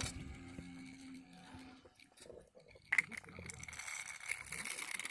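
Faint whine of a small CD/DVD-player motor driving a grinder cutting disc against an iron strip. It drops almost to silence about two seconds in, then starts again sharply about three seconds in as a higher steady whine with light ticking.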